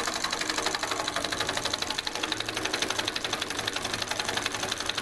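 Homemade solenoid engine, a truck starter solenoid with a home-made piston driving a weed-eater crankshaft and switched by a micro switch, running steadily with a fast, even clatter of rapid clicks.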